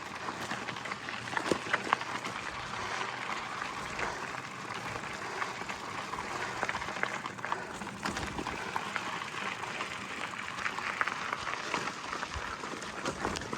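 Bicycle tyres crunching and crackling steadily over a gravel dirt road on a slow climb, with scattered small clicks of loose stones.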